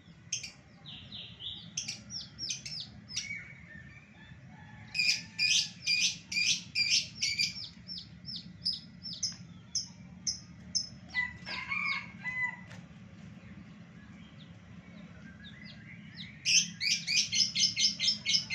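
White-breasted waterhen (ruak-ruak) calling in bouts of short repeated notes, with a loud run about five seconds in and a faster run near the end.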